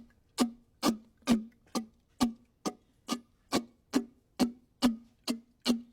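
A steady ticking beat in the soundtrack: sharp strikes about twice a second, each with a brief low ringing note that dies away quickly.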